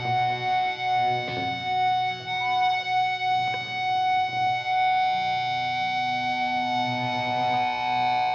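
Band music: electric guitar through effects with long held notes ringing out over a steady drone.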